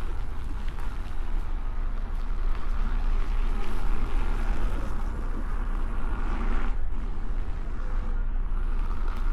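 Steady riding noise from an electric unicycle on a dirt trail: low wind rumble on the microphone with tyre noise over the ground, briefly dipping a little before seven seconds in.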